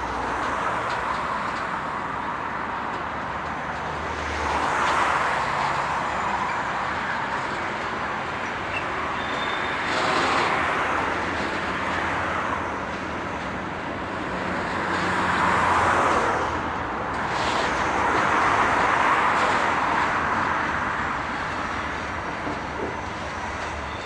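Passing vehicles: a steady rumble that swells and fades about four times.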